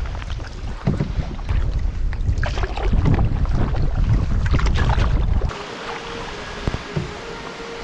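Wind buffeting the microphone with a heavy rumble, and irregular splashes of paddle strokes and water against a canoe. About five and a half seconds in the sound drops abruptly to a quieter steady hiss with a faint hum.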